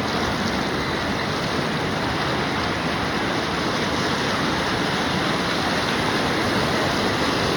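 Steady rush of river water around a raft.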